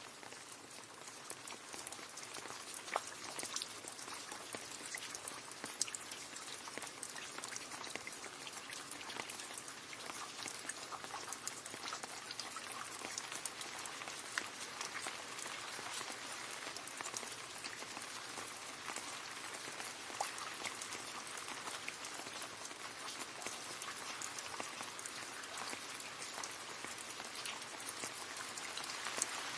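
Steady rain falling into a puddle, a dense patter of drops splashing on water with an occasional louder drip.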